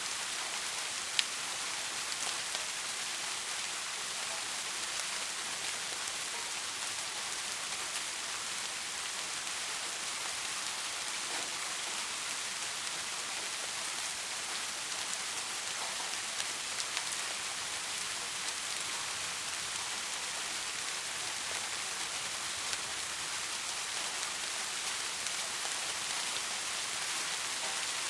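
Steady rain falling, an even hiss with scattered drop ticks. There is one sharp click about a second in.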